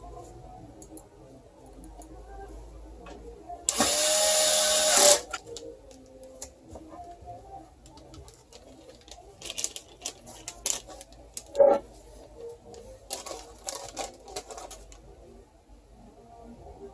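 A small power tool's motor runs once for about a second and a half, then scattered clicks and light knocks of parts being handled.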